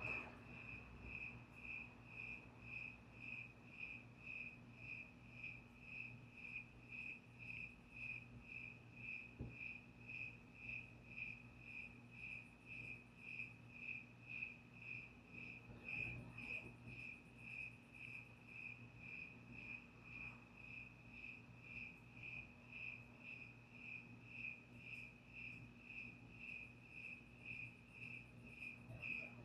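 A cricket chirping steadily, an even, high-pitched chirp repeated about twice a second, over a faint steady low hum.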